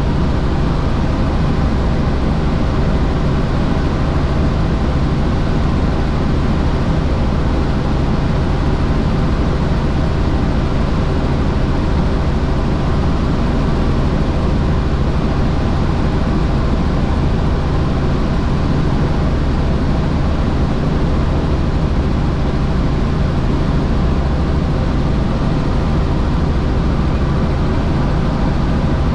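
Helicopter in flight: a steady, loud drone of engine and rotor noise with a low hum underneath, unchanging.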